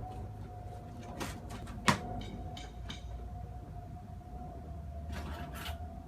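Faint clicks and handling noises, with one sharp click about two seconds in, over a thin steady tone and low rumble; the engine is not yet running.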